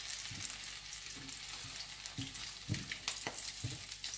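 Tuna patties sizzling as they fry in oil in a pan, with a few light knocks and scrapes of a utensil against the pan as they are turned, mostly in the second half.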